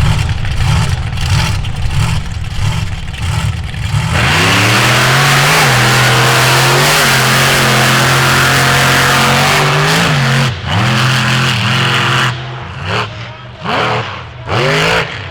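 An off-road vehicle's engine: a low, pulsing run for about the first four seconds, then revved hard and held at high revs for about six seconds with small dips, then blipped in short rising and falling revs near the end.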